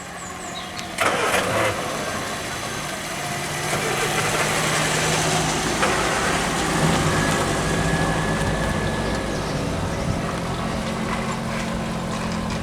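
A classic car's engine starts with a sudden loud burst about a second in, then runs steadily.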